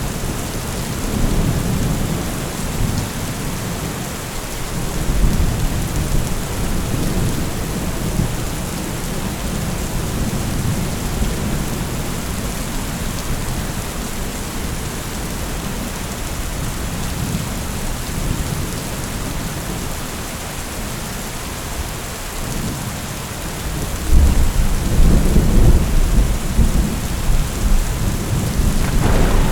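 Thunderstorm: steady rain with rolling thunder rumbling low underneath, the rumble growing loudest about 24 seconds in.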